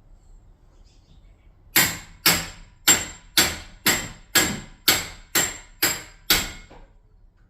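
Ten quick, evenly spaced hammer blows, about two a second, each sharp strike followed by a short ring.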